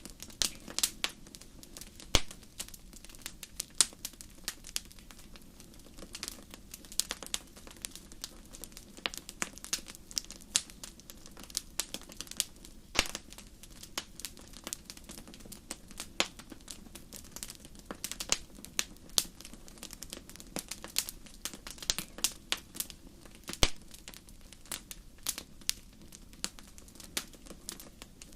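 Wood fire burning in a fireplace, crackling with irregular sharp pops and snaps over a low steady hiss of the flames.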